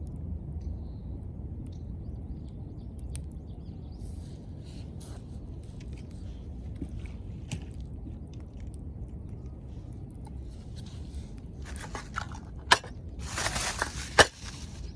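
Wood fire crackling over a steady low rumble: scattered small clicks, then a busier spell of crackle with two loud sharp snaps near the end.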